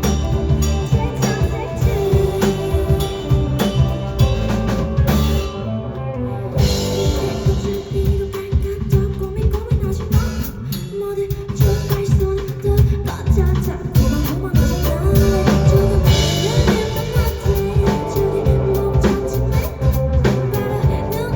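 A band playing live, led by a drum kit with sharp snare and rimshot hits over a full band backing.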